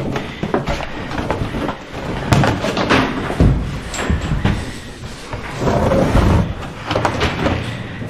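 Irregular knocks and thumps, a few louder ones among them, with no steady machine sound.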